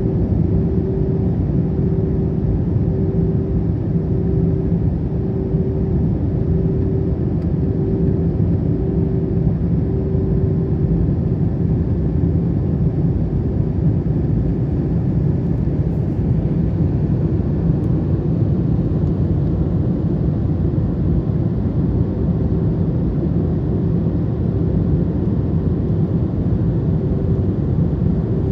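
Cabin noise inside an Airbus A321 airliner during its descent: a steady deep engine and airflow hum, with a thin humming tone that throbs evenly for the first ten seconds or so, then holds steady.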